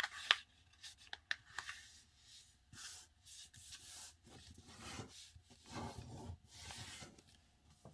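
A sheet of paper being folded down and creased by hand: a few short crisp crackles in the first couple of seconds, then soft rubbing and rustling swishes as the fold is worked.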